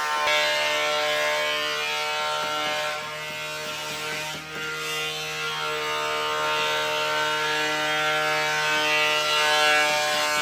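An electric power tool working wood, running steadily with a whine and a fast rattling clatter, easing briefly about halfway through.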